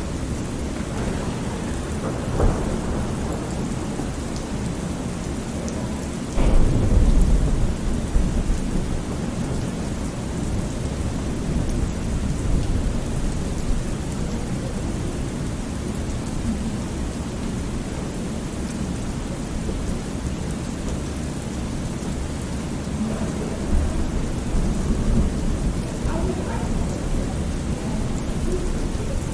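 Thunderstorm: steady rain with low thunder rumbling, a loud clap of thunder about six seconds in and lighter rolls near the start and toward the end.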